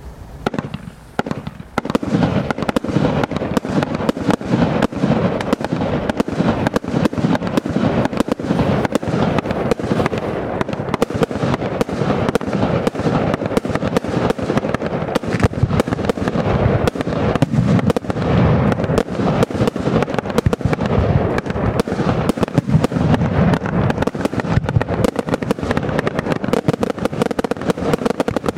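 A 100-shot consumer firework barrage cake firing its brocade shots in rapid succession: a dense, unbroken stream of launches and bursts that starts about a second and a half in.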